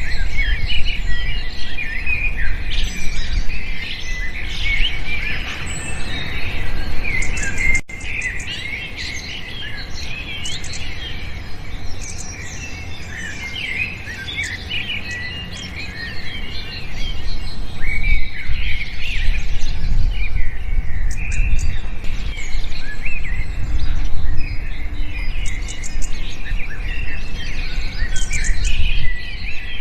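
Many small birds chirping and twittering at once, a dense overlapping chatter of short quick calls over a low rumble. The chatter drops out for an instant about eight seconds in, stays thinner and quieter for the next nine seconds or so, then fills in again.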